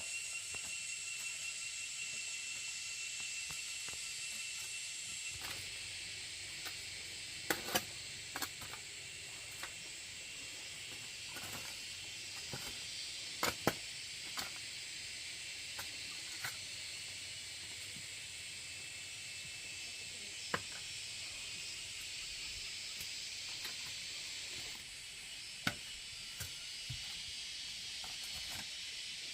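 Steady hiss of heavy rain, with scattered sharp knocks and clicks through it, the loudest a few seconds in and about halfway through.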